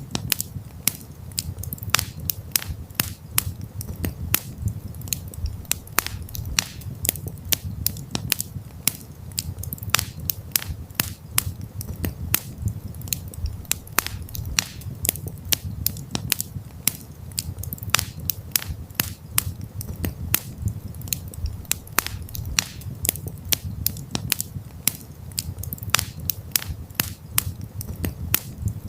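Wood campfire crackling and popping: frequent irregular sharp snaps over a steady low rumble of the burning fire.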